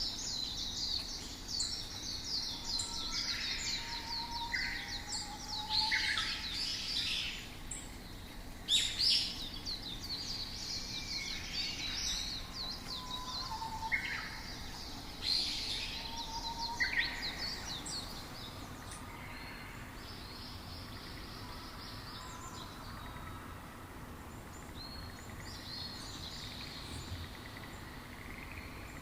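Several small songbirds chirping and trilling in quick, overlapping calls over a steady background hiss of outdoor ambience. The calls come thick and fast for most of the time and thin out toward the end.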